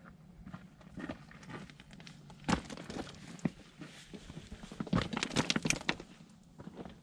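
Hiking footsteps crunching on rocky, gravelly desert ground in uneven steps, with one loud crunch about two and a half seconds in and a quick run of louder crunches later on.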